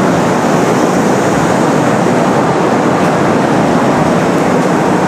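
Kintetsu 6020 series electric commuter train running along a station platform: a steady, loud rumble and rush of wheels on rails and running gear.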